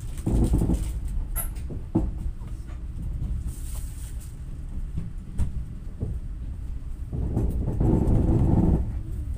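Passenger train carriage running on the rails, heard from inside: a steady low rumble with sharp clacks every second or so as the wheels cross rail joints, swelling louder about seven seconds in.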